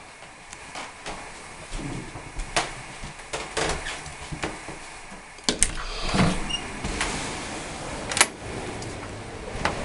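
A series of irregular clicks and knocks, with a steadier rush of noise and low rumble coming in about halfway through.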